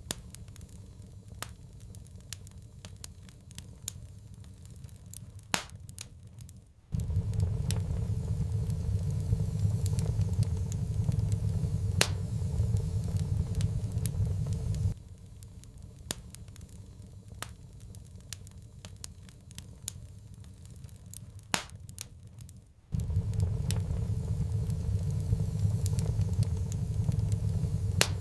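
Wood fire crackling with scattered sharp pops. A steady low rumble cuts in abruptly about seven seconds in, stops suddenly about halfway through, and returns near the end.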